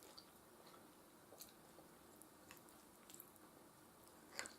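Faint, close-miked chewing of soft food, mashed potatoes and beef stew: scattered soft wet mouth clicks, with a sharper click near the end.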